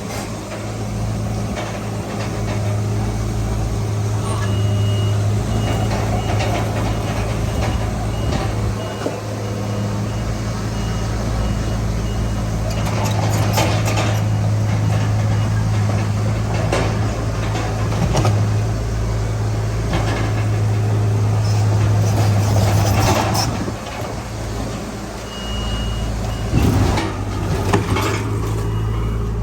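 Komatsu D31PX bulldozer's diesel engine running steadily under load, with scattered clanks and scraping from the dozer working soil. A reversing alarm beeps in an even run through the first half and briefly again near the end.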